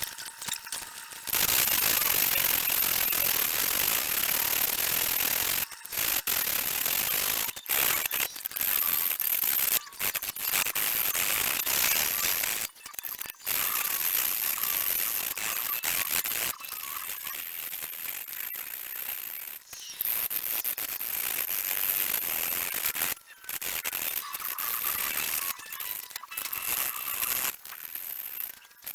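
Sandpaper rubbing on a steel knife blade: hand sanding that runs in long stretches of dense scratching hiss, broken by a few short pauses.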